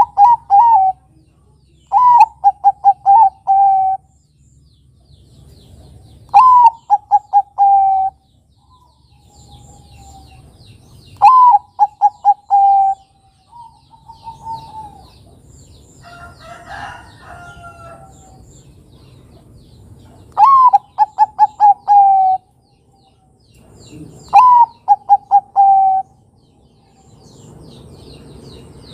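Zebra dove (perkutut) song: about six loud phrases a few seconds apart, each a sharp rising opening note followed by a quick run of short coos. A softer, less regular call comes between them, about halfway through.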